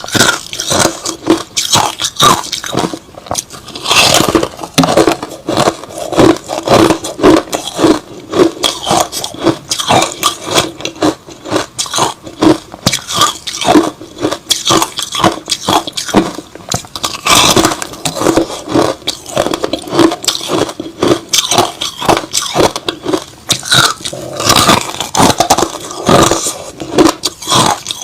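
Close chewing and crunching of white crushed-ice slush, a steady run of crisp crunches a few times a second.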